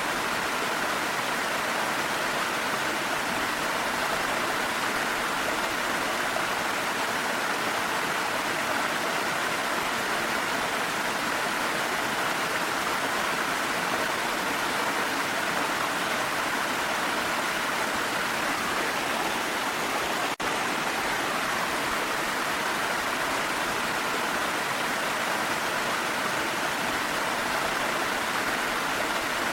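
Steady rush of falling water, an even waterfall-like roar with no change in level, broken by a momentary dropout about twenty seconds in.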